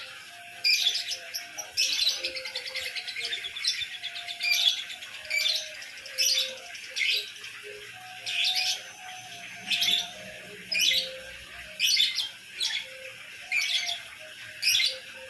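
Lovebird chirping: shrill sharp calls repeating about once a second, with a rapid chattering trill a couple of seconds in.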